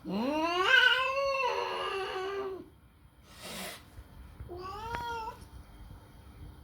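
Turkish Angora cat yowling during mating: one long drawn-out yowl that rises in pitch and trails off, a short breathy noise, then a second, shorter yowl near the end.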